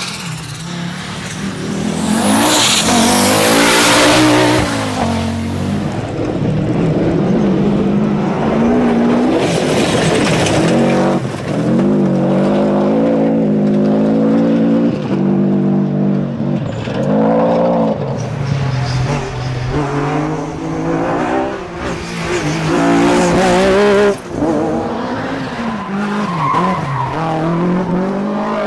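Rally cars driven hard on a stage: engines rev up and drop away again and again through gear changes, with surges of tyre and surface noise.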